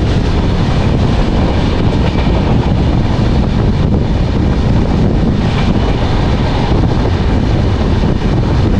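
Duronto Express passenger train running along the track: a loud, steady rumble of wheels on rails.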